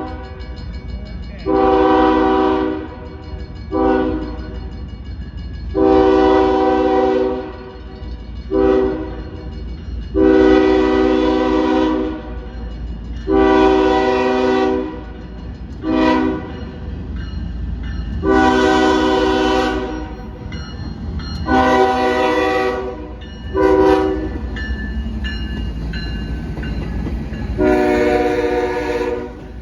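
Norfolk Southern freight locomotive's multi-chime air horn blowing a series of long and short blasts, about eleven in all, over the steady low rumble of the passing train.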